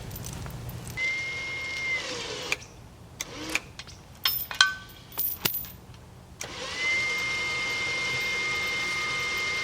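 Chain clinking and knocking as it is handled, between two runs of a steady, high electric-motor whine. The whine runs briefly about a second in, then starts again about two-thirds of the way through and keeps going.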